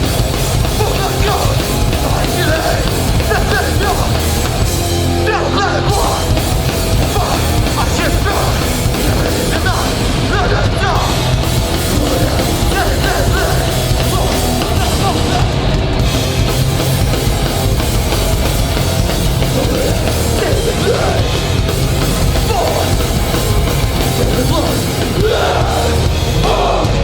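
Hardcore punk band playing live at full volume: distorted guitars, bass and drums, with the cymbals dropping out briefly about every five seconds.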